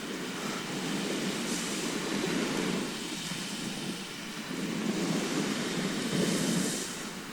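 Sea waves washing onto the shore, a steady rushing that swells and ebbs, with a surge of hiss about two seconds in and again near the end.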